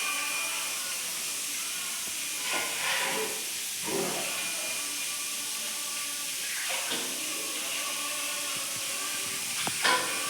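Chicken drumsticks frying in hot oil, a steady sizzle.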